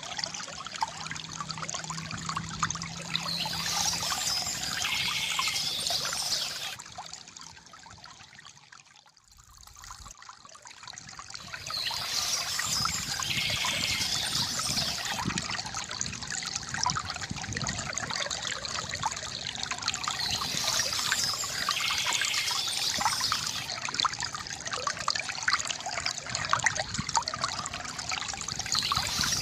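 Water trickling and gurgling steadily from a bamboo fountain, with short bird calls coming back every several seconds. About a third of the way in, the sound fades almost away and then swells back.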